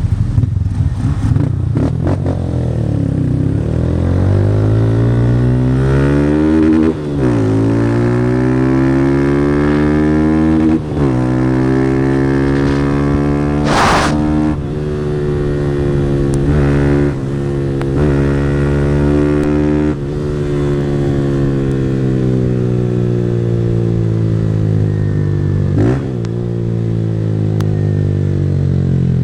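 160 cc single-cylinder motorcycle engine with a Fortuna Trioval aftermarket exhaust, ridden hard through the gears: the engine note climbs and drops sharply at each shift, about five times. A single sharp click about halfway through.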